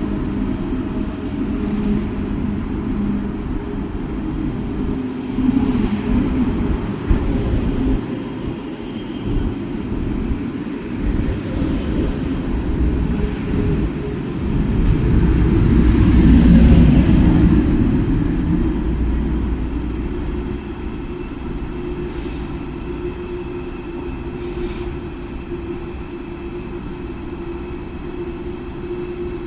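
ICE high-speed train pulling out of the station, a steady rumble of the train running that swells to its loudest about halfway through and then eases off. Two short clicks come later on.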